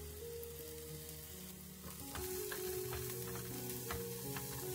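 Sliced onion, green onion and garlic sizzling in hot oil in a nonstick frying pan, growing louder about two seconds in as a wooden spatula stirs them, with light scraping knocks against the pan.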